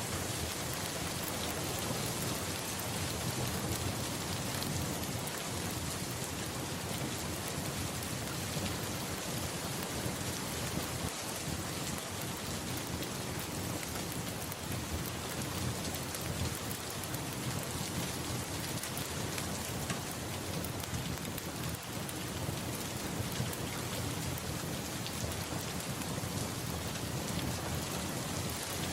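Steady, continuous rain, with a low rumble of thunder underneath.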